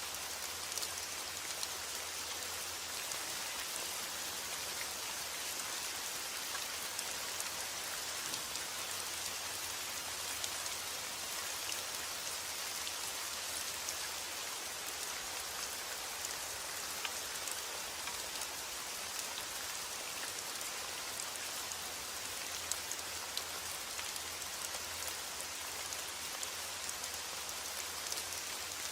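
Steady rain falling, an even hiss of many small drops with scattered sharper drop ticks.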